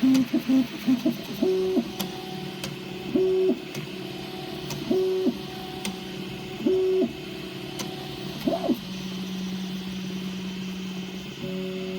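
Prusa i3 3D printer running, its stepper motors sounding short pitched tones about every second and a half to two seconds, with sharp clicks in between. About 9 seconds in, the pattern gives way to a steady lower hum.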